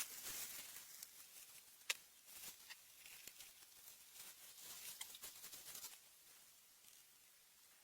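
Faint rustling and pattering with a few sharp clicks, which dies away about six seconds in.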